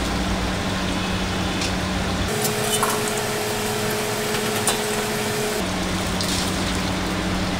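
Food sizzling and crackling in hot oil in a pan, with a low steady hum underneath. About two seconds in the sound changes for a few seconds, then returns.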